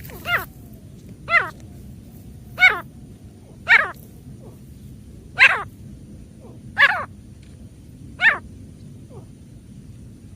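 Female grey francolin calling: a short call repeated seven times, roughly one every second and a half.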